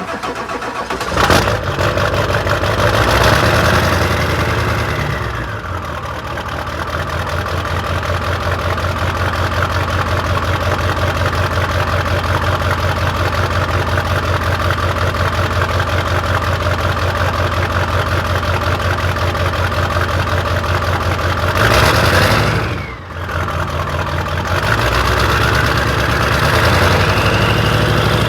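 A 1997 Ford F-350's 7.3 Powerstroke V8 turbo-diesel with 5-inch exhaust cold-starting: it fires and catches about a second in, then idles with a steady rapid clatter. It is revved several times, around three to five seconds in, briefly just after twenty seconds, and again near the end, with a whistle rising and falling with the revs.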